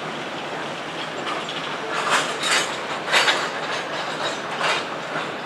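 Freight train of tank cars rolling slowly past, its steel wheels clacking over the rail joints with a steady rolling rumble. A few louder metallic clacks come about two to three seconds in and once more near the end.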